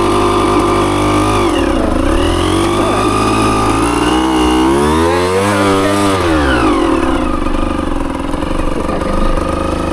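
Dirt bike engine being ridden on a trail, its pitch rising and falling as the throttle is opened and closed, with one long rev up and back down about halfway through.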